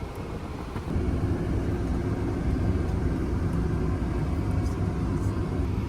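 Car engine and road rumble heard inside the cabin, getting louder about a second in as the car moves off, then holding steady.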